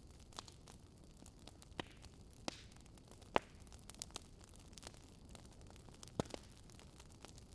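Campfire crackling: burning wood giving irregular sharp pops and snaps, the loudest about three and a half seconds in, over a low steady hiss.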